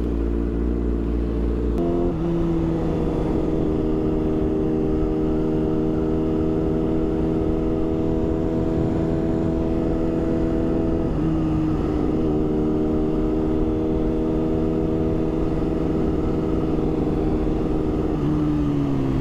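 A 600 cc inline-four sport-bike engine running at highway speed under wind noise, holding a steady note with short changes in pitch about two seconds and eleven seconds in, and easing off near the end.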